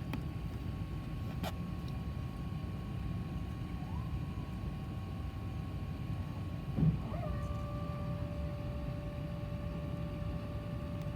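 Steady low rumble and whine inside an Airbus A380's cabin while it is pushed back and its engines are started, with several steady high whine tones. About seven seconds in, a short louder sound slides in pitch and a new steady whine sets in.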